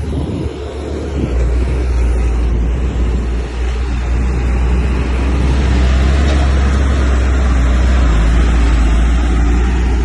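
Heavy diesel earthmoving machine engine running hard with a low, steady drone, growing louder about a second and a half in and holding there.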